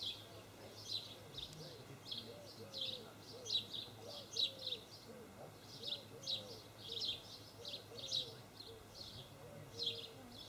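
Small birds chirping continually, in short high notes several times a second, with a quieter, lower call repeating underneath.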